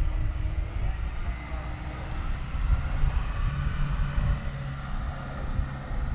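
Motorcycle engines idling, a steady low rumble, with wind buffeting the microphone.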